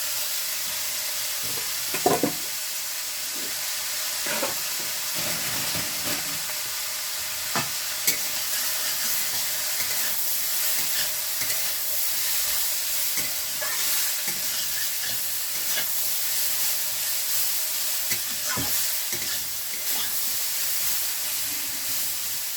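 Food frying in a pan, a steady sizzle, with occasional knocks and clicks of a utensil against the pan, the loudest about two seconds in and again about eight seconds in.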